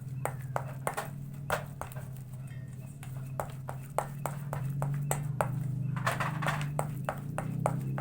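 A pestle knocking and mashing fishing-bait dough in a mortar: uneven knocks at about three a second. A steady low hum runs underneath.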